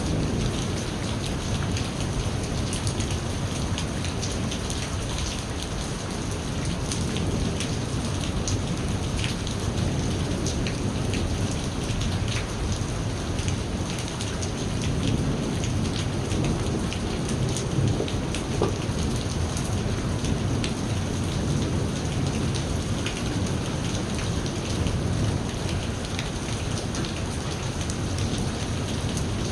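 Steady rain falling on surfaces, with individual drops ticking, over a continuous low rumble of thunder.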